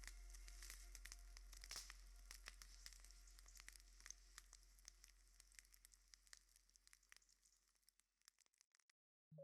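Faint crackling, with scattered clicks over a low steady hum, fading gradually away to silence near the end.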